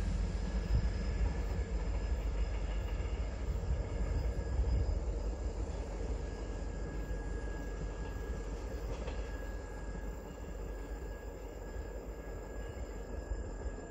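A diesel-hauled Mugunghwa-ho passenger train running away into the distance: a low rumble of engine and wheels that slowly fades.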